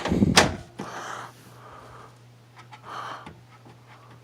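A person breathing audibly through the nose, a soft puff about every two seconds, with a few faint handling clicks over a steady low hum.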